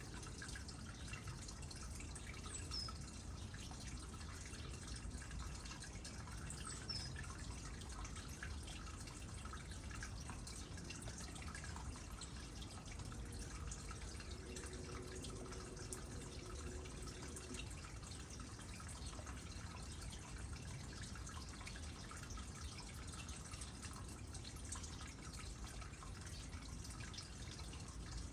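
Water trickling and dripping into a small pond, a steady run of small drips and splashes.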